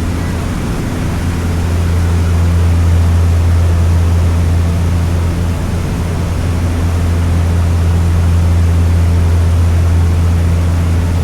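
Seaplane's propeller engines droning steadily, a loud, even low hum.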